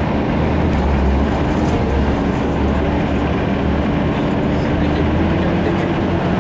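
Off-road 4x4 engine running steadily and hard, a dense continuous drone with a low hum and a tone that rises slightly in pitch about two-thirds of the way through.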